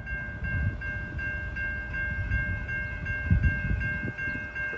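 Railroad grade-crossing warning bell ringing at an even beat of about two strokes a second, over a low rumble. This is the crossing's third activation in a row, which the onlooker suspects may be another false alarm.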